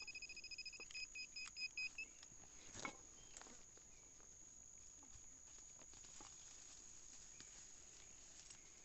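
Nokta Makro Simplex+ metal detector giving a high, rapidly pulsing target tone over a buried metal object, which stops about two seconds in. A few faint clicks and knocks follow as the find is dug up and handled.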